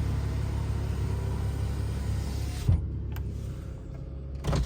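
Lexus engine idling, heard from inside the cabin, while the driver's power window is run, with a thump about two and a half seconds in and another near the end.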